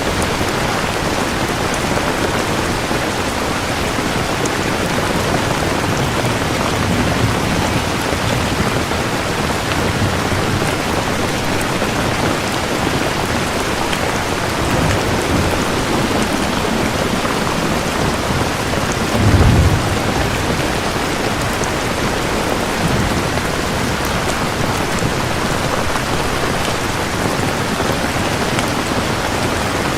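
Steady rain falling, with low rolls of thunder, the strongest a short deep rumble about two-thirds of the way through.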